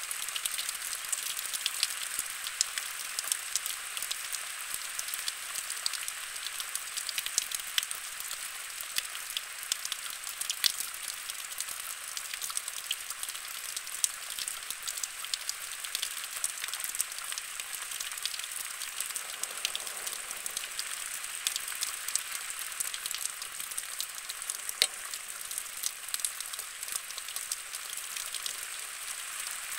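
Thunderstorm rain falling: a steady hiss full of sharp, irregular ticks of drops landing close by.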